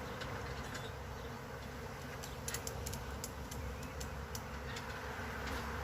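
Honeybees buzzing steadily around hives, with a quick run of light clicks and ticks partway through.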